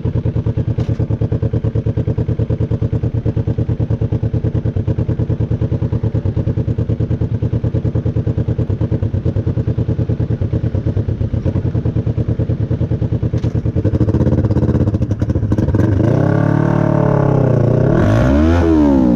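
Motorcycle engine running with an even pulsing beat. From about fourteen seconds in, the revs climb and drop several times as it accelerates.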